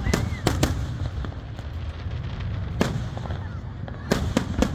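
Fireworks bursting: three sharp bangs in quick succession near the start, a single bang in the middle, and another quick cluster of three near the end, over a steady low background rumble.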